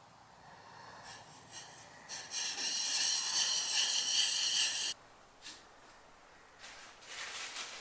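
Steel plane blade rubbed by hand on a sharpening stone, a scraping hiss. It is loudest for about three seconds in the middle and cuts off suddenly about five seconds in, with fainter strokes near the end.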